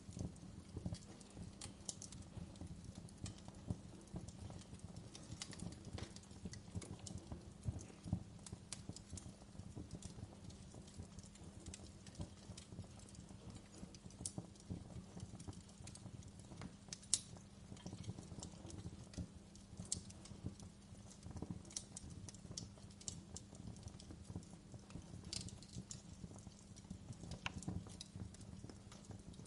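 Wood fire crackling: irregular sharp pops and snaps over a low steady rumble, with one louder snap a little past the middle.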